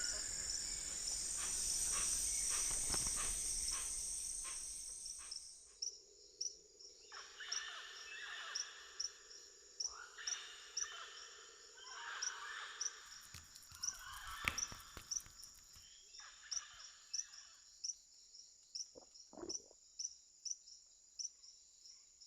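Rainforest ambience of insects and frogs: a dense high insect chorus thins out about five seconds in, leaving a steady high whine and a regular high chirp about twice a second. Bouts of hoarse, rasping animal calls come in the middle.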